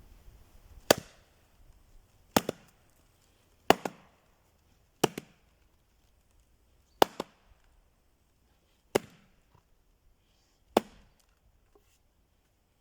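Axe chopping wood: seven sharp blows about every one and a half to two seconds, some followed by a quick second knock.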